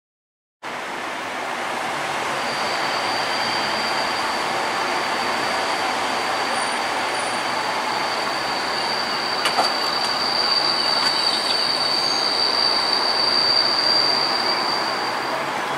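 Locomotive-hauled test train, led by a GB Railfreight Class 73, running along the track with a steady rumble, starting abruptly about half a second in. A long, high, steady squeal from the wheels sets in a couple of seconds later and holds until near the end.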